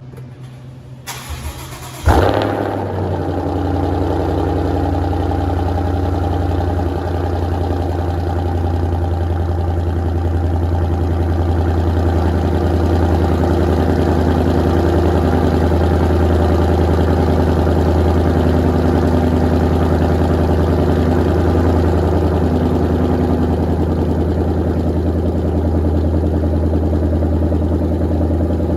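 Ford Mustang GT's 5.0-litre V8 breathing through a Roush cat-back exhaust with an H-pipe, cold-starting. A brief crank, then the engine catches with a loud flare about two seconds in and settles into a steady, loud high idle.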